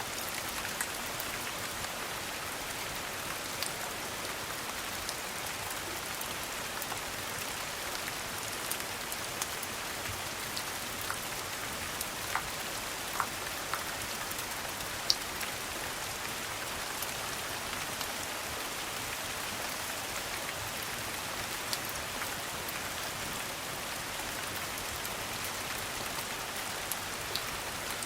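Steady rain pattering, with scattered sharp ticks that stand out from the hiss every second or two.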